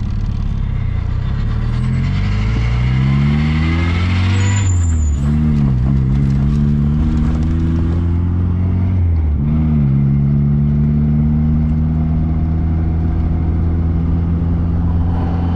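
Car engine accelerating through the gears: its pitch rises steadily, drops at a gear change about five seconds in, climbs again, drops at a second change about nine and a half seconds in, then settles to a steady cruise.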